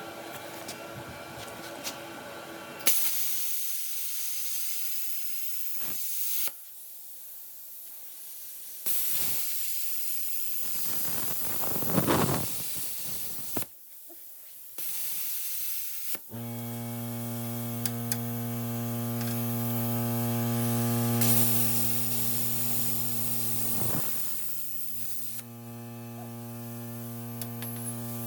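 Plasma cutter cutting 5/8-inch steel plate: three stretches of loud hissing as the arc and air blow through, then from about halfway a steady electrical hum from the machine, which breaks briefly near the end.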